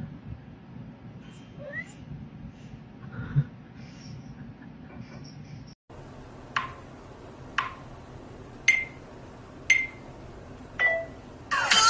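A cat meowing five times in short calls about a second apart, each falling in pitch.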